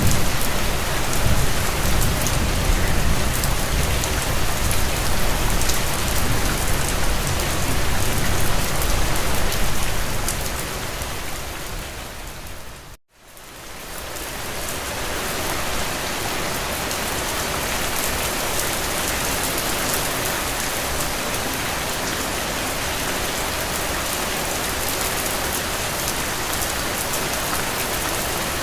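Steady rain on a window pane, a dense even hiss with a deep low rumble under it at first. About 13 seconds in it fades briefly to silence and comes back as lighter rain without the rumble, the crossfade of a looped recording.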